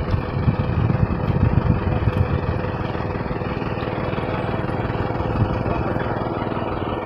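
Tractor diesel engine running, heavier and choppier for the first couple of seconds, then settling to a steady drone.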